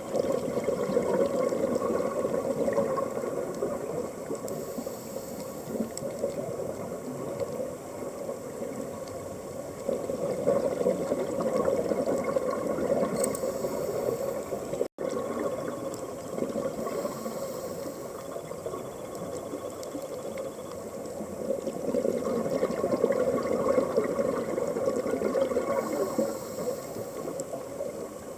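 Underwater recording of a scuba diver's regulator breathing: bubbling, rushing exhalations that swell and fade, with short hisses of inhalation between them.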